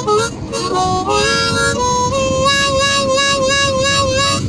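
Blues harmonica (harp) fill: a few short notes, then a long held note that wavers about four to five times a second, over accompanying music underneath.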